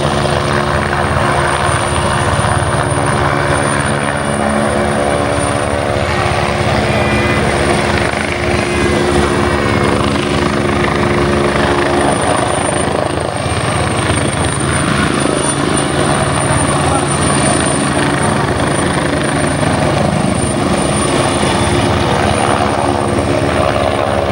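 Helicopter running steadily: a continuous loud rotor-and-engine hum with a thin high whine above it. The low droning tone fades about halfway through and comes back near the end.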